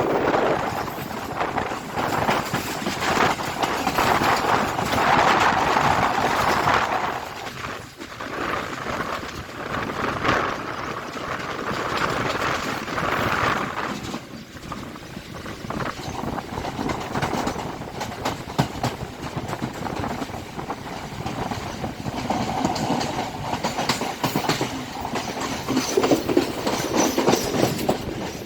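Express passenger train running fast on the rails, its wheels clicking over the rail joints in a continuous clickety-clack over a loud rushing rumble that swells and fades.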